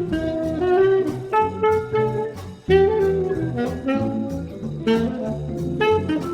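Small jazz group playing a bebop tune with a swing feel: a saxophone plays quick runs of notes over bass and drums, with steady cymbal strokes.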